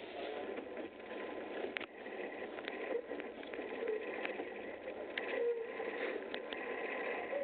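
Moving train heard from inside the carriage: a steady rolling rush with a faint steady whine, and a handful of sharp clicks and knocks scattered through it.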